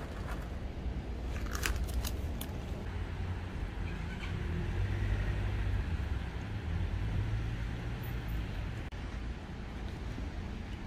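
Low, steady rumble of a motor vehicle's engine running nearby, swelling a little around the middle, with a few light clicks about two seconds in.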